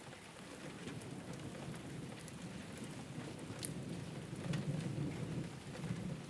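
Steady rain falling on a rooftop, with scattered sharp drop hits. A low rumble swells up about four seconds in and eases near the end.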